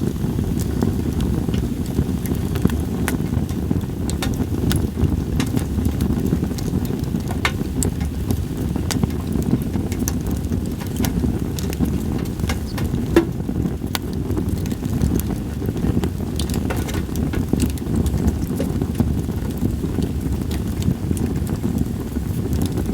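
Campfire of split sawtooth oak (kunugi) firewood crackling, with scattered sharp pops, over a steady low rumble of wind.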